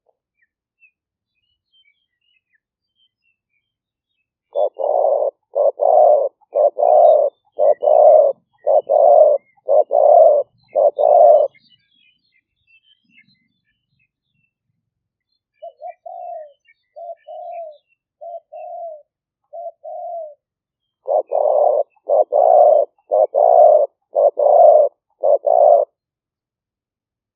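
Spotted dove cooing in repeated series: a loud run of about ten short coos, then softer, shorter coos in small groups, then another loud run of about eight coos. Faint chirps of other small birds sound behind.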